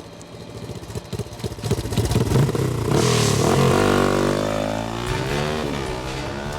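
Motorcycle engine revving up, growing loud over the first few seconds, then its pitch swings down and back up as it runs on, with some clatter mixed in.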